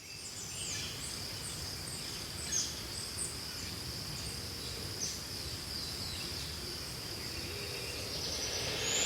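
Outdoor nature ambience that fades in: a steady high-pitched insect drone with scattered short bird chirps over a low rumbling background.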